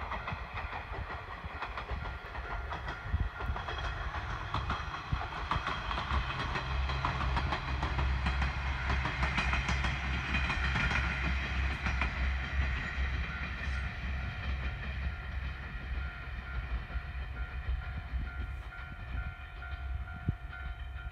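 Aizu Railway two-car diesel railcar train (AT-351 and AT-401) passing at a distance, its wheels clicking over the rail joints over a low engine drone. The sound swells to its fullest about halfway through, then eases off as the train moves away.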